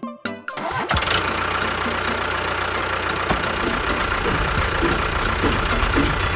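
Engine running steadily at an even idle, starting about a second in, after a short bit of music at the start.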